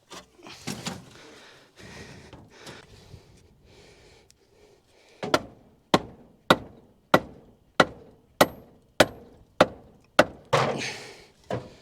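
Quiet handling noise, then a run of about nine sharp knocks, roughly one every 0.6 s, from blows with a wooden 2x4 against the seized pistons of a small-block Chevy V8 to try to free the stuck engine.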